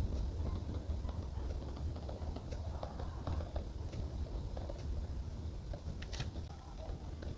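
Light, irregular clicks and taps of hand journaling: pen and stationery handled on paper at a desk, over a steady low hum.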